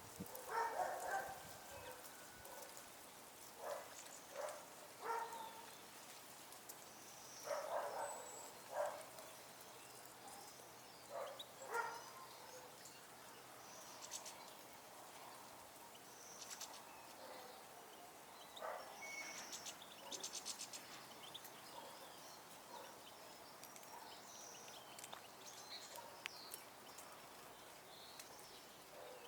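Outdoor animal sounds: a run of short, louder, lower calls in the first twelve seconds, then scattered high bird chirps with a quick trill about two-thirds of the way through.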